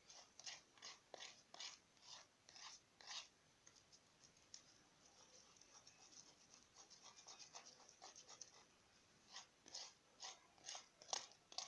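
Faint repeated scrapes of a spoon stirring glue slime mixture on a paper plate. The strokes come about two a second, run faster and closer together midway, then pick up again near the end.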